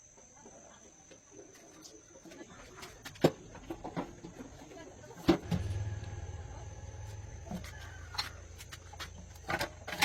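Scattered sharp knocks and clicks, with a low steady hum that starts about halfway through.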